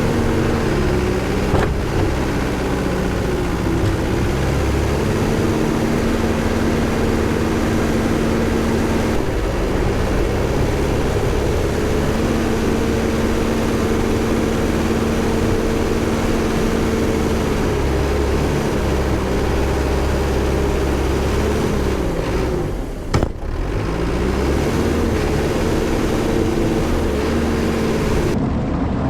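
Diesel engine of heavy equipment plowing deep snow, running steadily at working revs under load. Its pitch sags and recovers near the start and again about three-quarters of the way through, with a brief knock at the second sag.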